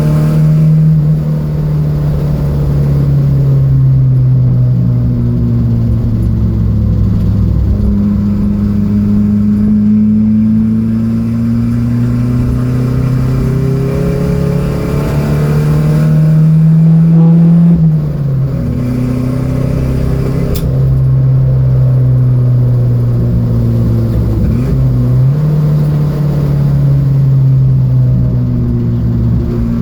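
Datsun B210 race car's four-cylinder engine running hard on track, its pitch climbing slowly through each gear and changing suddenly at the gear shifts, about three times.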